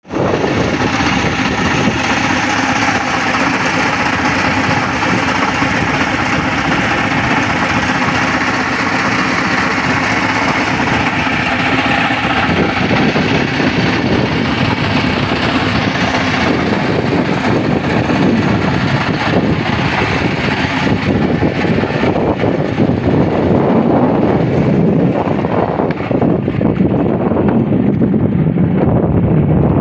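A steady engine running, with rough wind noise buffeting the microphone, stronger in the second half.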